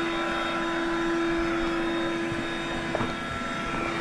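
Electric air-mattress pump running steadily, a constant hum over a hiss of air, as it inflates an air bed that is nearly full. A small click about three seconds in.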